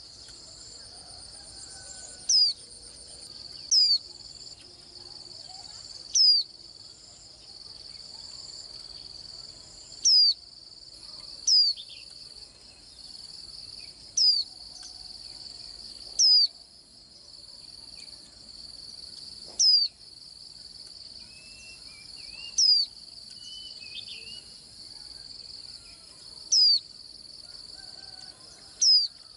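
White-eye (綠繡眼) giving about a dozen short, sharp, downward-slurred call notes, one every two to three seconds at uneven spacing, with a little soft twittering past the middle. Behind the calls runs a steady high cricket-like trill.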